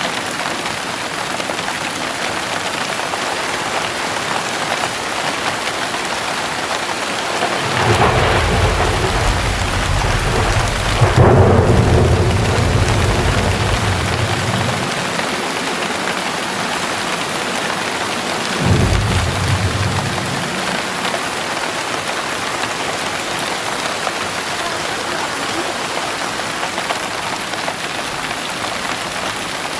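Heavy rain falling steadily, with a long roll of thunder that starts about a quarter of the way in and swells to the loudest point, then a second, shorter rumble of thunder a few seconds later.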